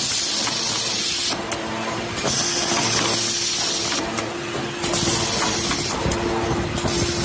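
TMP-9060CT automatic steel-plate and magnet machine running, with a steady hum and bursts of hiss repeating about every two seconds.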